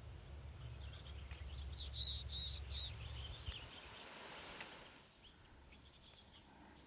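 Small songbirds calling: a quick run of high, rapid notes, then two short chirps near the end, over a faint steady hiss and a low rumble that stops about halfway.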